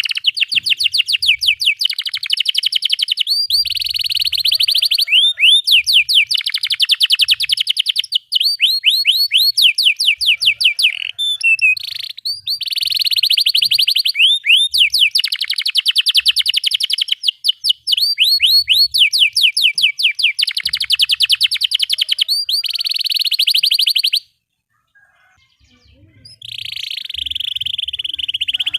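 Domestic canary singing a long, loud song of fast repeated chirps and tight rolling trills. It breaks off for about two seconds near the end, then resumes with a dense roll.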